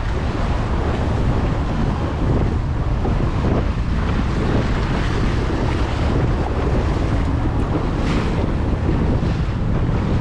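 Wind buffeting the microphone, a steady low rumble, over the sound of a boat moving on the water.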